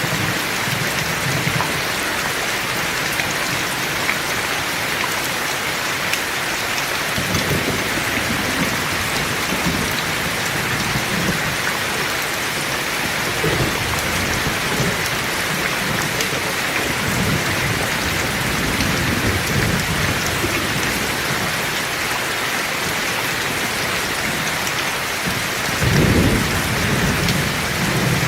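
Heavy rain falling steadily, with several rolls of low thunder rumbling through it. The loudest roll comes near the end.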